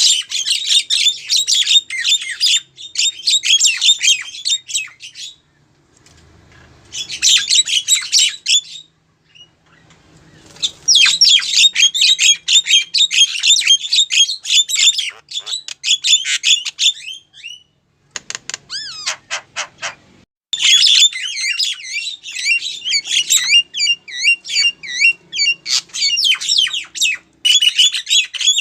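Female Javan myna calling: bouts of rapid, harsh chattering and squawking notes with short pauses between them, and a brief run of quick, evenly spaced clicking notes about two-thirds of the way through.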